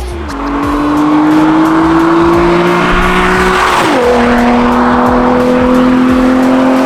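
Nissan 350Z's 3.5-litre V6 accelerating through its custom dual valved X-pipe exhaust, the pitch climbing slowly. About four seconds in it shifts up: the pitch drops sharply, then climbs again in the next gear.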